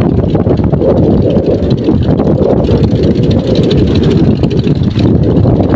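Strong wind buffeting the microphone: a loud, unbroken rumble with no clear pitch.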